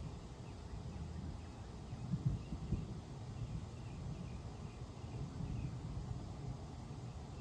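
Outdoor ambience: an uneven low rumble, stronger a little over two seconds in. Faint high chirps, likely birds, repeat through the middle.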